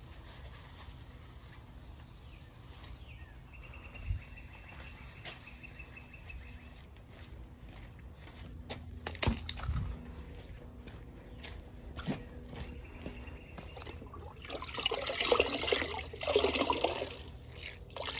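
Water sloshing in a bucket of rinseless wash solution in two bursts near the end, after scattered light taps and clicks.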